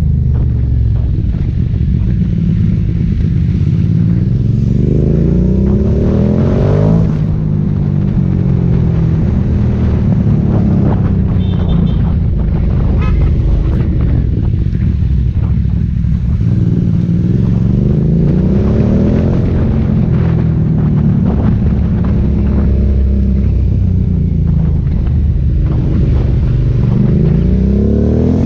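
Aprilia Dorsoduro 750's V-twin engine through an Akrapovic exhaust, heard from the rider's own bike while riding. The engine pitch climbs and falls several times as the bike accelerates and eases off, with a sharp drop about seven seconds in.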